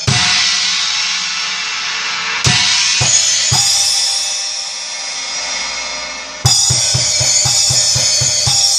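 Kasza R Series cymbals crashed four times together with bass drum kicks, each crash left to ring and wash out for a second or more. Near the end a quick run of bass drum beats is played under the last crash. Raw sound through a tablet's built-in microphone, with no mics or compression.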